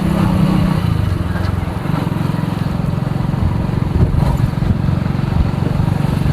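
Vehicle engine running steadily, a continuous low drone while driving.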